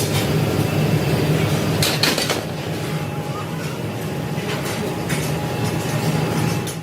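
Factory machinery running with a steady low hum, and a few sharp metal clanks of steel parts being handled.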